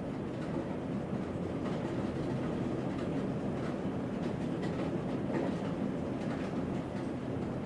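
Thunderstorm: a steady low rumble with faint scattered ticks like drops landing.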